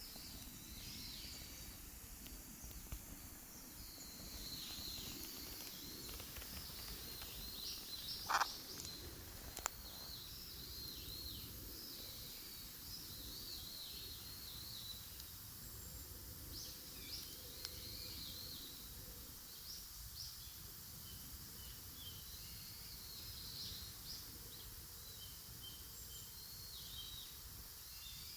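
Wood campfire burning with a steady low crackle and two sharp pops, about a third of the way in and again a second later, while small birds chirp repeatedly.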